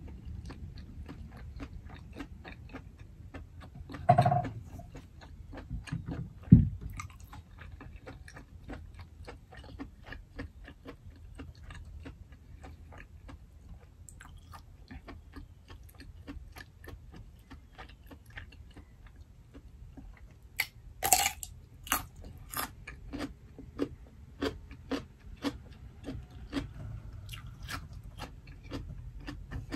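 Close-miked mouth sounds of a person eating: soft chewing with small wet clicks, one short louder noise about four seconds in and a low thump a couple of seconds later. About two-thirds of the way through, a loud crisp crunch starts a run of crunches, about one a second, as a raw radish is bitten and chewed.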